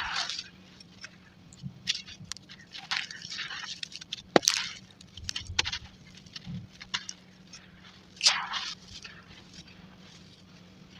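Crunchy charcoal chunks crushed and crumbling, sped up to double speed: an irregular run of gritty crunches and sharp cracks. The loudest crunches come right at the start, about four and a half seconds in, and about eight seconds in.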